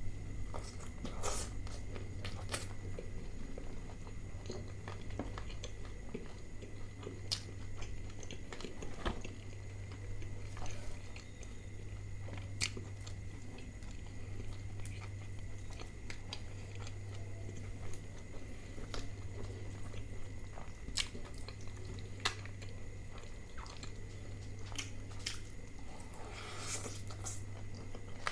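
Close-miked chewing and biting of butter chicken and naan: wet mouth sounds with many scattered short clicks and occasional crunches, over a steady low hum.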